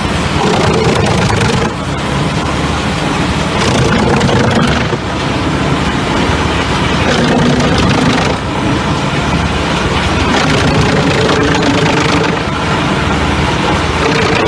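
Forestry wood chipper running loud and steady, its engine and chipping drum making a continuous mechanical din, with a few brief dips in level.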